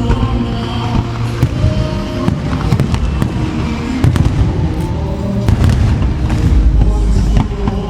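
Aerial fireworks bursting and crackling in quick succession, with a pyromusical show's soundtrack playing loudly beneath them. Sharp bangs come every second or so, with the heaviest low rumble near the end.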